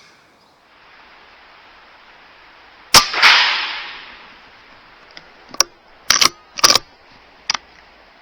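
A single air-rifle shot from a .22 BSA Super10 PCP, about three seconds in, ringing on in the shed for about a second. It is followed by a few short sharp clicks and knocks.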